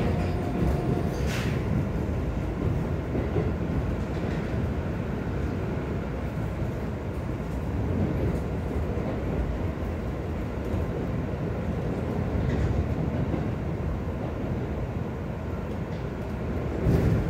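Keikyu New 1000 series electric train running at speed: a steady rumble of wheels on rails, with a couple of sharp clicks, the loudest near the end.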